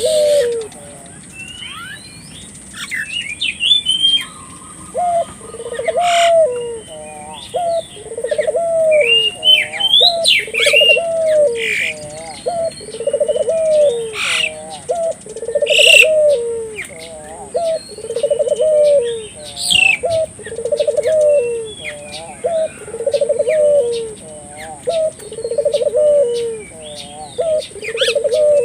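Puter dove cooing persistently, the vigorous 'gacor' calling used to stir other doves to call: the same low phrase repeats about every one and a half to two seconds, from about five seconds in. Smaller birds chirp higher over it.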